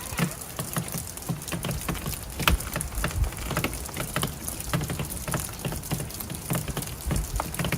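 Rain pattering on surfaces as a dense, irregular patter, with gusty low rumble from wind on the microphone.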